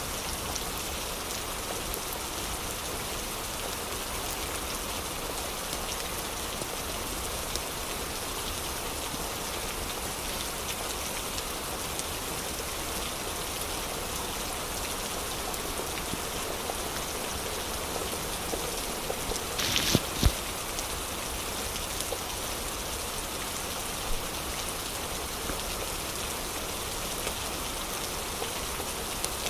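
Steady rain falling and pattering on surfaces, an even hiss of drops. About two-thirds of the way through there is a brief louder burst ending in a sharp knock.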